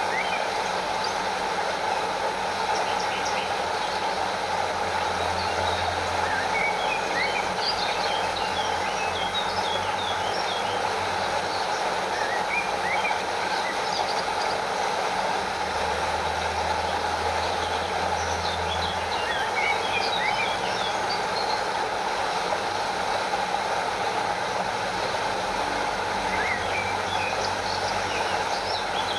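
Stream water running over a small waterfall: a steady, even rush of water. Clusters of short high chirps come and go several times over it.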